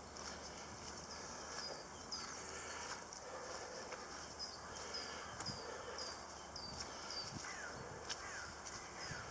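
Wild birds calling: a steady run of short, high, downward-sliding chirps about twice a second, with a couple of lower falling calls near the end.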